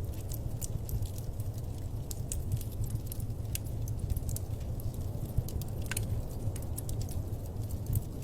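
Wood fire crackling in a fireplace: a steady low rumble of the flames with frequent irregular sharp pops and snaps, one stronger snap about six seconds in.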